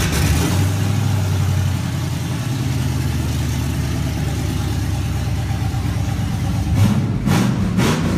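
A car engine running at a steady idle, then blipped a few times near the end with its pitch rising.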